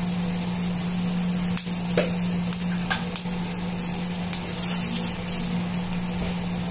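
Butter foaming and sizzling in a nonstick frying pan with a bay leaf, cashew nuts and green chillies, with scattered small pops, over a steady low hum.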